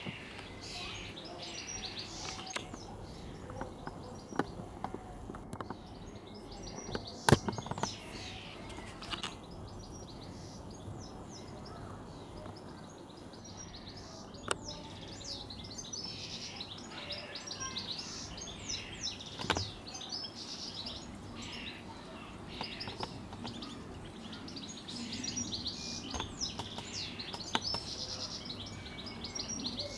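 Small birds chirping and twittering over outdoor background noise, the chirps coming in clusters throughout, with a few sharp clicks, the loudest about seven seconds in.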